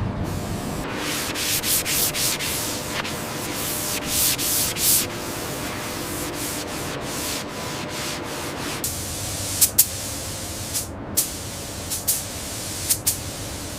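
Repeated rubbing strokes across a surface, like hand sanding, about two or three strokes a second. In the last few seconds they give way to a handful of short, sharp hissing bursts.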